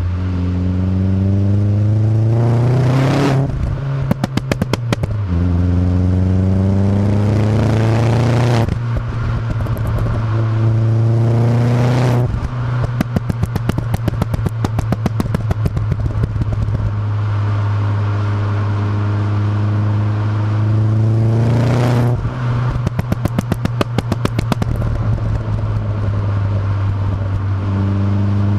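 Astra GSI's turbocharged Z20LET engine, breathing through a Milltek decat exhaust, revved up from idle several times. Each time the revs drop back, a rapid string of pops and crackles follows from the pop-and-bang map; the longest string comes about halfway through.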